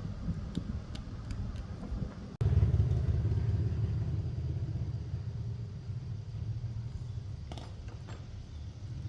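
Small air compressor's motor running with a low, steady hum and a few light clicks. About two and a half seconds in it breaks off abruptly and comes back louder, then slowly eases.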